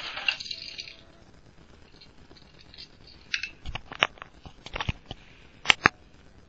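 Small die-cast toy car rolling down a plastic spiral track, a rattling rush that stops about a second in. Then a few sharp clicks and knocks of the toy car and plastic track, two of them loudest near the end.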